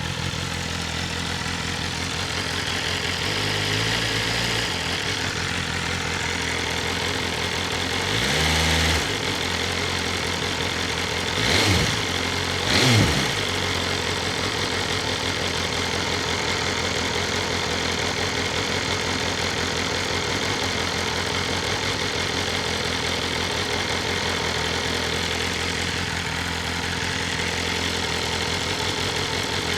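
BMW S1000RR's inline-four engine idling through its stock Akrapovic exhaust, with three quick throttle blips about eight, twelve and thirteen seconds in, each rising in pitch and dropping back to idle.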